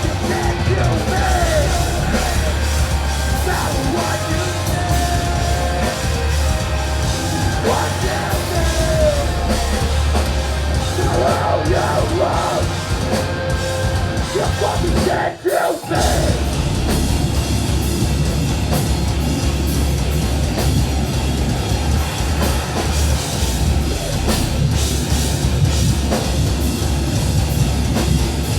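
Live heavy metal band playing loud, with distorted guitars and a drum kit; the music breaks off for about half a second halfway through, then comes back in.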